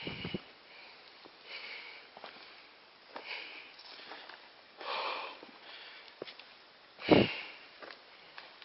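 A person breathing hard, a loud breath about every one and a half to two seconds, the loudest and deepest about seven seconds in: out of breath on a steep uphill climb.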